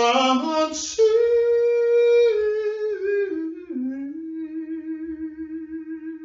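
A single voice singing without words in long held notes, stepping down in pitch, the last note held with a wavering vibrato.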